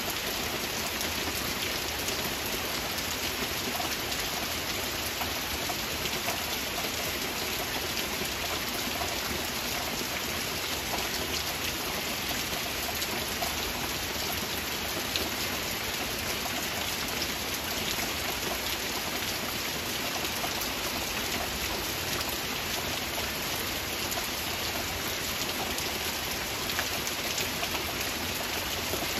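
Steady heavy rain falling: a dense, even hiss with scattered sharper ticks of single drops.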